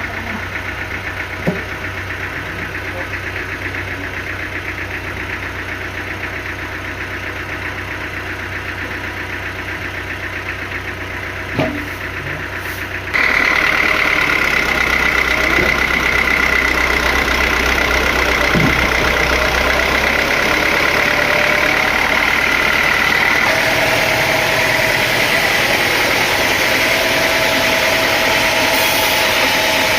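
Sawmill machinery running steadily with an engine drone. About halfway through it abruptly becomes louder, with a high steady whine over the drone.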